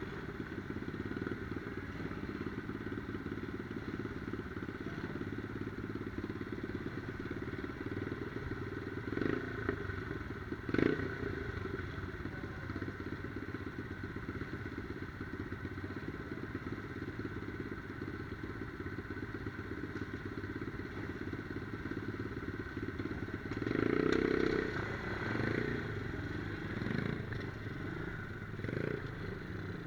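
MRF 120 cc pit bike's single-cylinder four-stroke engine running steadily. A sharp knock comes about eleven seconds in, and the engine gets louder for a few seconds near the end.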